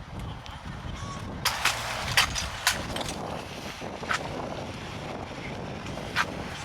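Wind buffeting the microphone, with about six short, sharp squawk-like sounds scattered through it, several close together in the first half.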